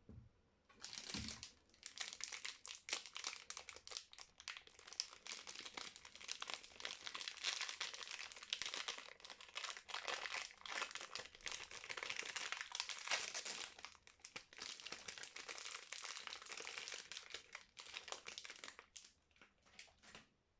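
Wrapper of a bar of soap crinkling and rustling as it is handled and unwrapped by hand, a dense crackle of small clicks that stops shortly before the end.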